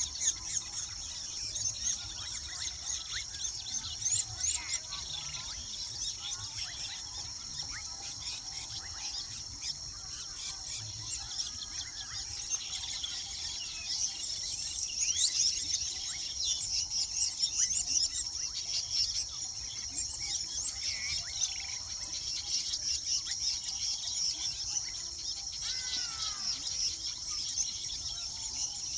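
Many small birds chirping and chattering over a steady high-pitched insect drone, the calls growing busier and louder about halfway through.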